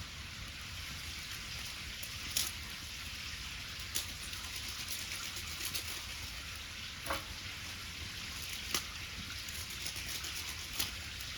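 Wood fire crackling: a steady hiss with a few sharp pops spread through it.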